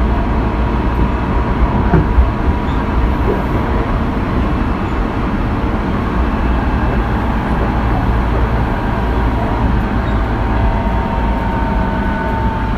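Tobu 20400 series electric multiple unit running at speed: a steady rumble of wheels on rail with faint steady tones above it, and a couple of clicks about two seconds in.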